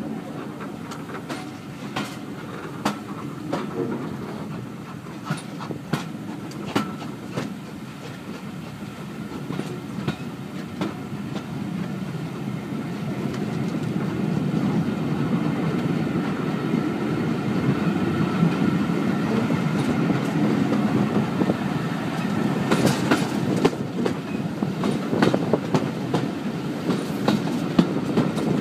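Railway carriage running along the track, heard from an open carriage window: a steady rumble with wheels clicking over the rail joints. It grows louder about halfway through.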